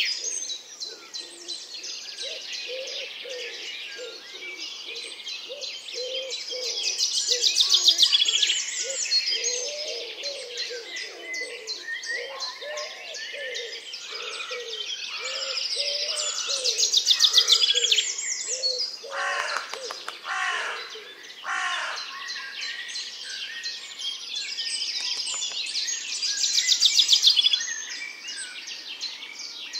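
A songbird singing loud, fast trilled phrases that swell and then stop, three times about nine seconds apart. Softer short chirps sound between the phrases.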